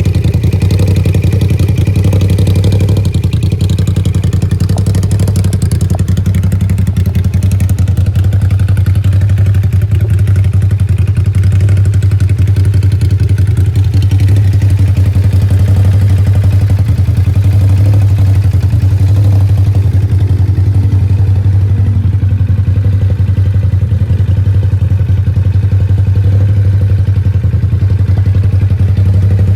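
Ducati SuperSport V-twin engine running through an Austin Racing aftermarket exhaust, idling steadily and loudly with a deep, even note and no revs.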